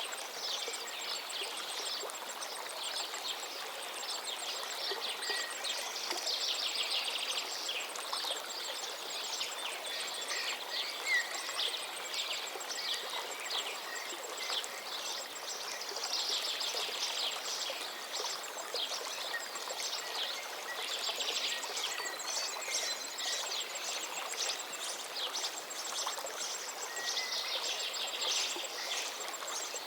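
A river flowing steadily, with many small birds calling and singing over it and rapid trills now and then.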